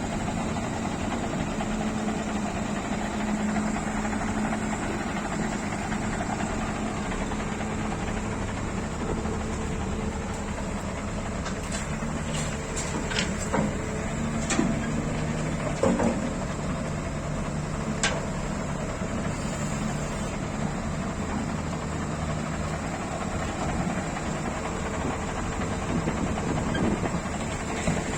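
Scania G500 truck's diesel engine running steadily, with a few short sharp knocks or clicks around the middle.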